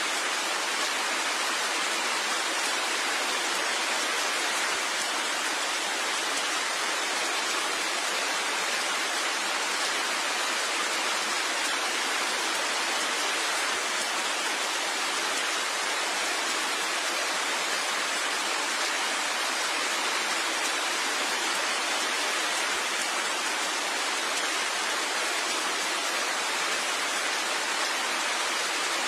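Steady rain falling as an even, unbroken hiss, with no separate drops standing out.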